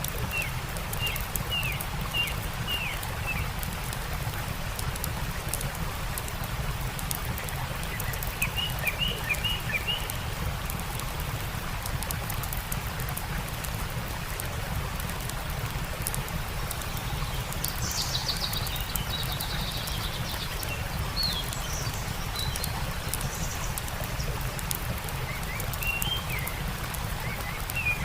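Steady rush of a stream with the snapping crackle of a campfire. Small birds chirp in short quick runs of notes near the start, about eight seconds in and near the end, and a higher bird call comes about two-thirds of the way through.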